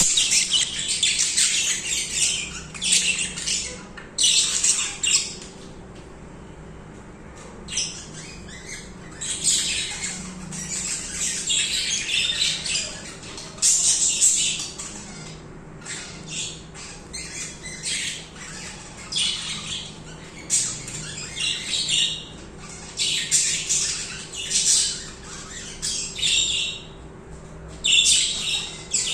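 Several budgerigars chattering and warbling in quick, high-pitched bursts, with a short lull about six seconds in and another near the end. A faint steady low hum runs underneath.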